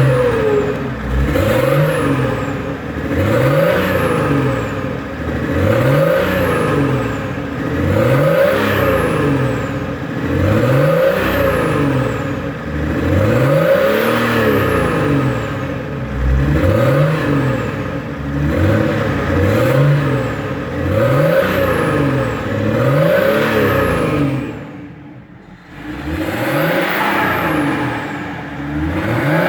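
BMW E39 530d's M57 straight-six turbodiesel, open exhaust from the flexible pipe back, revved up and let fall back again and again, about once every two and a half seconds, with a short quieter lull near the end.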